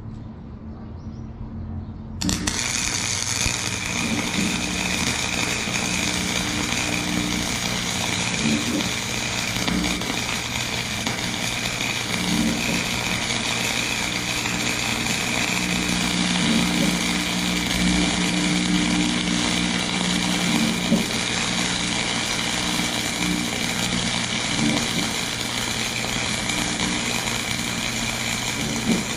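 Forney FC125 flux-core wire welder's arc striking about two seconds in, then crackling steadily as a bead is laid on steel, with a steady low hum underneath.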